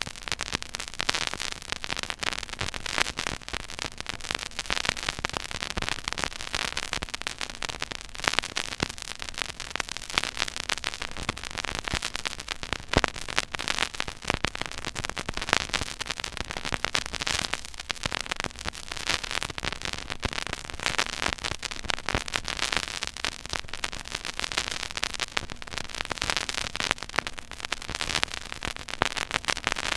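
Stylus tracking a silent groove on a 12-inch vinyl record: steady surface hiss with dense, irregular crackles and pops.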